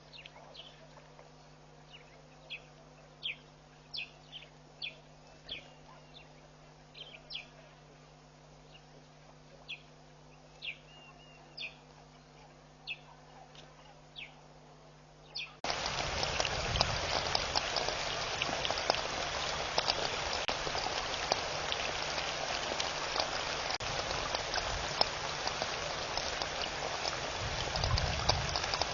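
A bird gives short, sharp calls about once a second over a faint steady electrical hum. About halfway through, the sound cuts abruptly to a much louder, dense crackling hiss full of tiny ticks.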